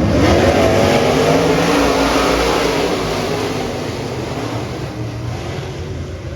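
Dirt modified race car engine revving with a wavering pitch. It is loudest in the first few seconds and fades after about three seconds as it moves off.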